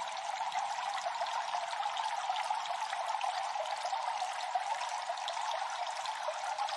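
Cave water dripping and trickling: many small drips, close together, over a steady water hiss.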